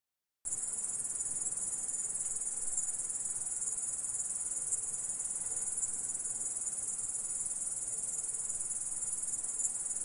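Grasshopper stridulating: a continuous, high-pitched buzzing trill that starts abruptly about half a second in and holds steady.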